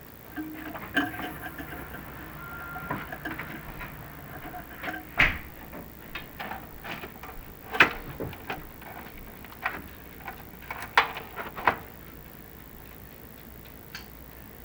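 Irregular clicks and knocks from chimney inspection camera gear being handled as the camera is worked down the flue, with a faint steady hum in the first few seconds and the sharpest knocks about five, eight and eleven seconds in.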